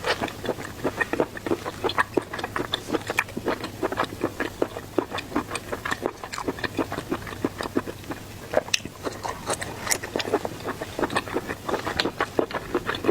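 Close-miked eating of seafood: chewing and mouth smacking, heard as dense, irregular clicks and crackles several times a second.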